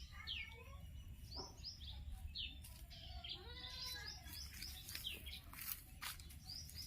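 Small birds chirping, many quick falling chirps one after another, over a low steady rumble.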